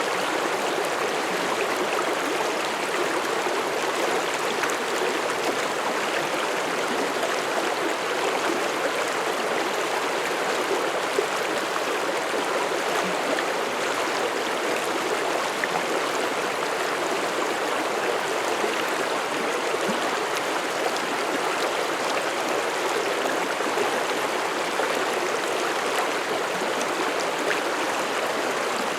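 Mountain stream flowing over rocks: a steady rushing and babbling of water with no change.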